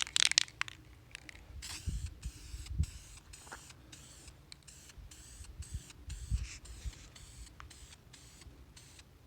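Aerosol spray can of self-etching primer hissing as small parts are sprayed, with a few low knocks from handling the parts.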